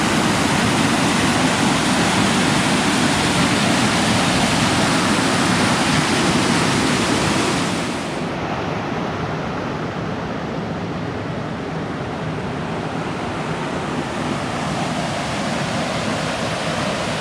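Waterfall rushing steadily. About eight seconds in it becomes slightly quieter and duller.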